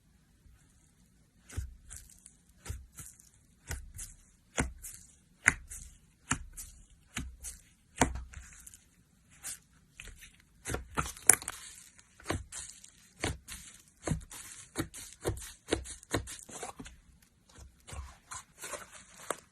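Slime being pressed and squished by hand, giving a string of sticky clicks and crackles, about one or two a second and quickening in the second half.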